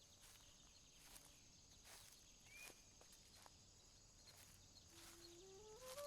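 Near silence: faint outdoor ambience with a few soft ticks and a single short high chirp. About five seconds in, soft music starts with a slow rising run of flute-like notes.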